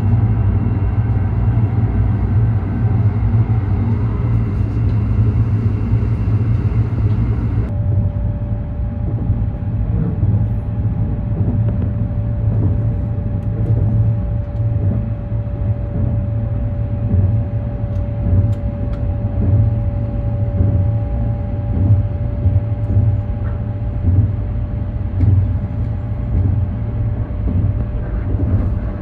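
Steady low running rumble heard inside a moving Sunrise Seto sleeper train, a 285 series electric multiple unit, with a faint steady hum over it. The sound shifts abruptly about eight seconds in.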